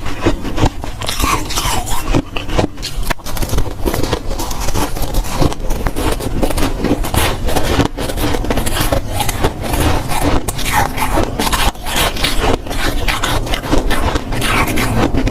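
A person biting into and chewing dry, powdery freezer frost, a dense unbroken run of crunches and scrapes.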